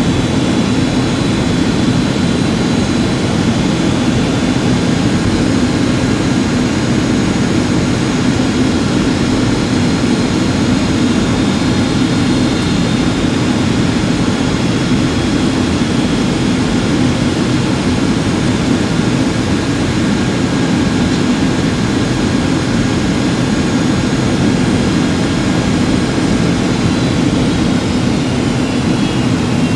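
Steady cabin noise inside a Boeing 757-200 in flight: jet engines and airflow, with a thin high whine that falls in pitch near the end.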